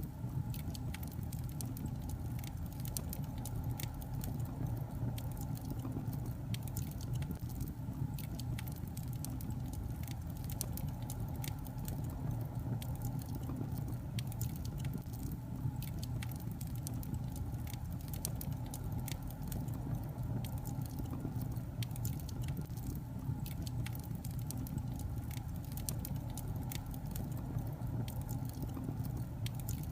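Logs burning in a fireplace: a steady low rumble of the fire with frequent, irregular crackles and small pops of the burning wood.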